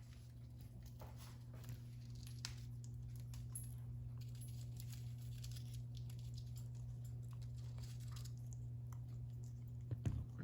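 African grey parrot picking at and tearing into a foraging toy: faint scattered rustling, tearing and clicking, with a couple of sharper knocks near the end, over a steady low hum.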